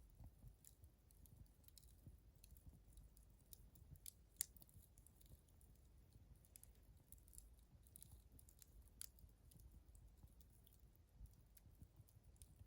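Wood fire crackling faintly, with scattered small ticks and pops and one sharper pop about four seconds in.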